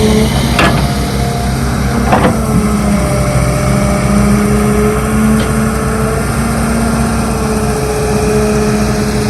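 Diesel engine of heavy construction machinery running steadily, its pitch wavering slightly with load, with two sharp knocks in the first few seconds.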